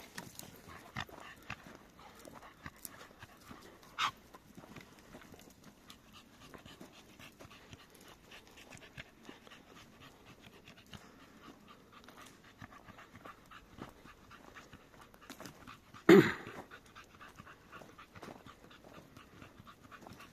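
A dog panting, with one sudden loud short sound about sixteen seconds in.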